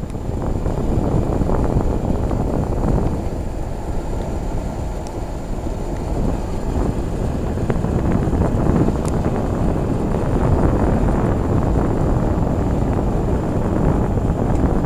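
Old Arvin electric heater running in fan-only mode, its blower pushing a steady rush of air that buffets the microphone. The noise jumps up sharply right at the start and then holds steady.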